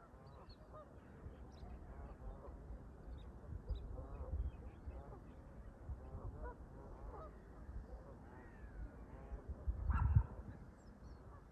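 A flock of Canada geese honking over and over, with wind buffeting the microphone in a strong gust about ten seconds in. Faint high chirps from smaller birds.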